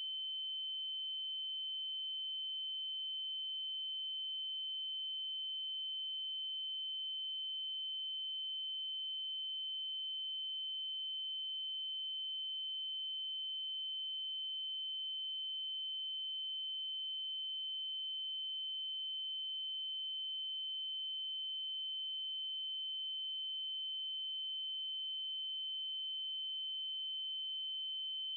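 Synthesized 3072 Hz triangle-wave tone: a steady, high-pitched electronic tone held at one pitch without change.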